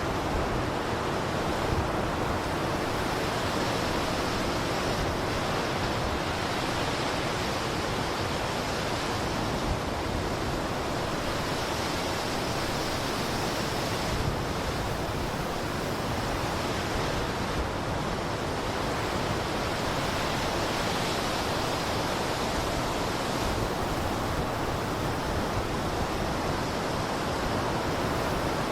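Blizzard wind: a dense, steady rush of wind noise that swells and eases a little every few seconds.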